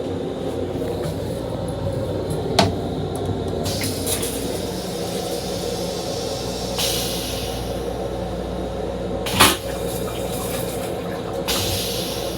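Inside a Metro-North M7 railcar restroom: the car's steady hum and rumble, broken by two sharp knocks and several short hissing rushes of restroom fixtures in use.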